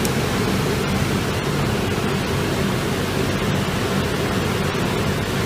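Bouncy castle blower running steadily, a loud even rush of air with a low hum, forcing air into a homemade fire-brick forge.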